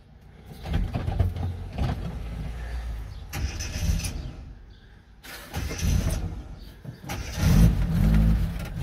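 Car engine started up and revved, its sound rising and falling three times, loudest near the end.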